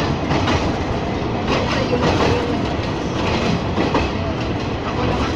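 Ex-JR 203 series electric multiple unit running on Philippine National Railways track: a steady rumble with irregular sharp clacks from the wheels over the rail joints.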